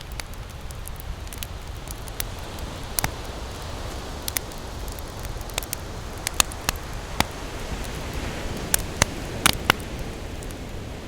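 Wood campfire crackling, with sharp pops scattered throughout and several louder ones in the second half, over a steady low rush of ocean surf.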